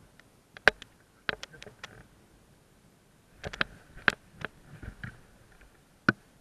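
A series of sharp, irregular clicks and knocks, about ten in all, coming in two clusters with a last one near the end.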